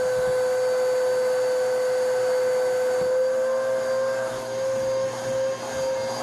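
Vacuum cleaner running steadily with a constant high motor whine while it is worked over carpeted stairs. The level dips briefly a few times near the end.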